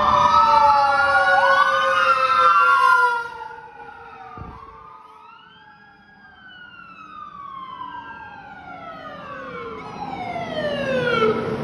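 Sirens of responding fire engines and an ambulance, several wailing at once with overlapping rising and falling pitches. Loudest for the first three seconds, they fade, then build again near the end.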